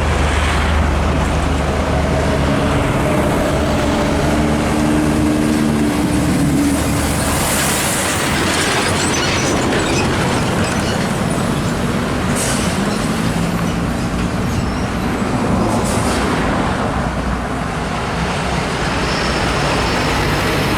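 Heavy trucks passing close by on a highway: diesel engine drones over a steady rush of tyre and road noise. One engine note is heard in the first seven seconds and another from about twelve to seventeen seconds in.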